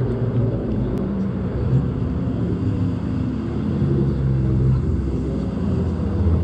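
Steady low rumble of Citroën 2CV flat-twin engines running, their tones rising and falling a little, with one sharp click about a second in.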